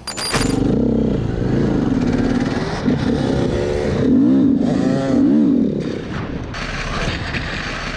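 Motorcycle engine running under throttle, its pitch rising and falling as it revs and shifts through gears.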